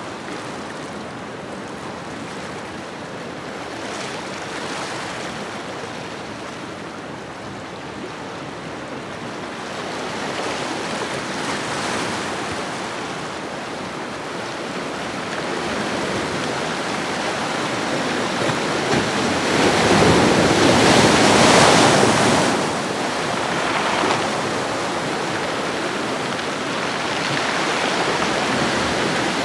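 Ocean waves washing on a shoreline: a steady surf hiss that swells and eases, with the biggest wave breaking about two-thirds of the way through.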